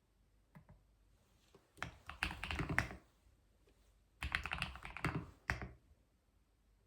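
Typing on a computer keyboard: a couple of light key taps, then two quick runs of keystrokes separated by a short pause of about a second.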